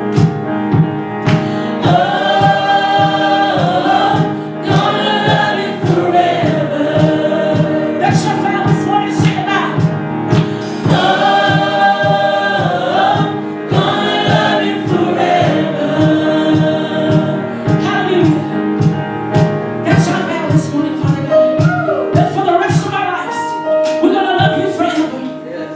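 Gospel choir singing sustained harmonies over a band with a steady drum beat.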